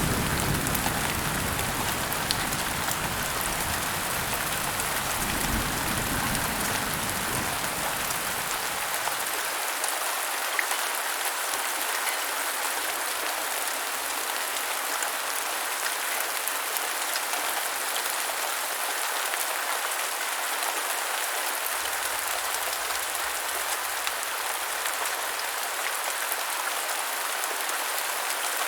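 Heavy rain falling steadily. A low rumble of thunder dies away over the first several seconds.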